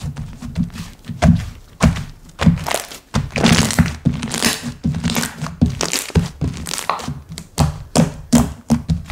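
Hands playing with slime: a fast, irregular run of sharp pops, clicks and crackly squishes as the slime is pressed, folded and poked.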